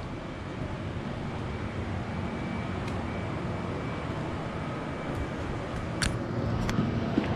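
1984 Carrier brown round 2.5-ton central air conditioner's outdoor condensing unit running steadily, its compressor and condenser fan giving a low hum. A few sharp clicks sound, one about three seconds in and two close together near the end.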